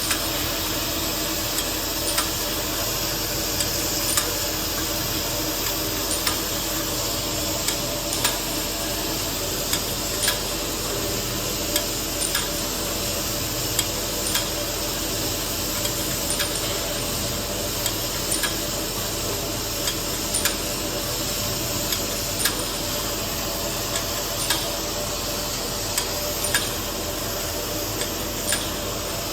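Twist-type ampoule and vial bottle washing machine running: a steady mechanical hum and hiss, with a short sharp click about every two seconds as the machine cycles.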